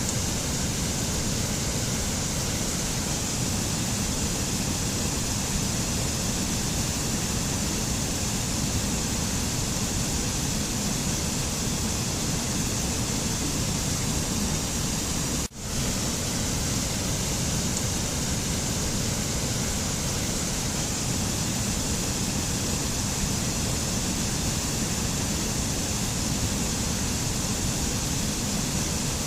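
Steady, even rushing noise of a nature-sound track, like falling water or wind, with no pitched tones or rhythm. It cuts out for a split second about halfway through, the seam of a loop, then resumes unchanged.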